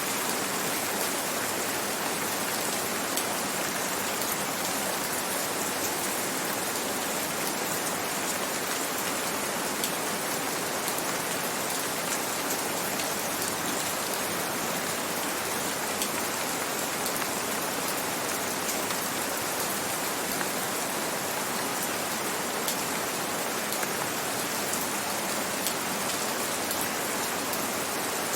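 Gentle rain falling steadily, an even hiss with a dense patter of fine drop ticks.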